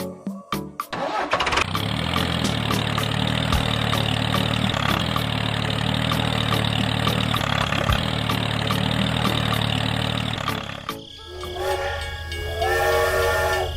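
An engine starts up about a second and a half in and runs steadily at a constant pitch for about nine seconds. It drops away near the end, and a multi-tone horn sounds in long blasts.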